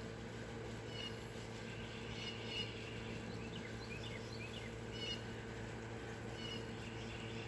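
Small birds in a tree chirping: short calls repeated about once a second, with a quick run of falling notes around the middle. A steady low hum runs underneath.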